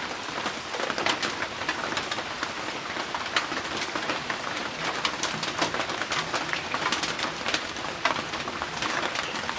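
Heavy rain falling steadily on a roof, a dense patter of countless drops.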